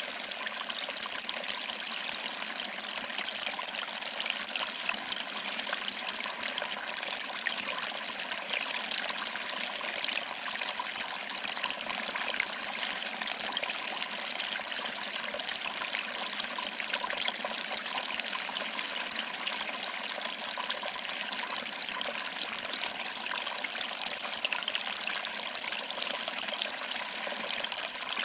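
Small waterfall: water trickling over rocks and splashing into a pool, a steady, even rush of water.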